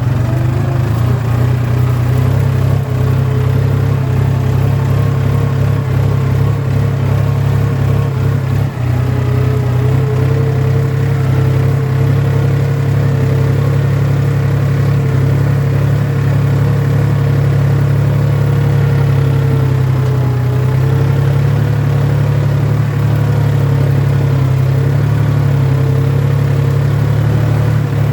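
Tractor engine running steadily under load while plowing a field, a constant low hum with a slight waver in pitch.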